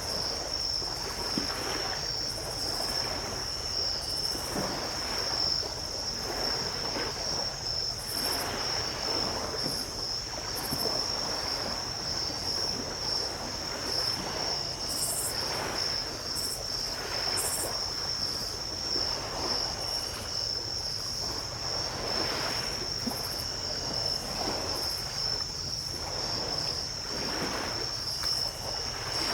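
Night insects, likely crickets, keep up a steady high trill while small ocean waves break and wash up the beach every few seconds.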